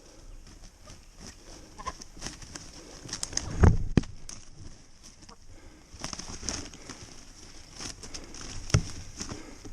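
Birds calling in the woods over a steady high-pitched background, with scattered rustles and a few thumps, the loudest about three and a half seconds in and another near the end.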